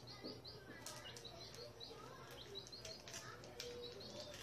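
Small birds chirping, with many short, high chirps in quick runs, a few of them rising, and a few faint clicks among them.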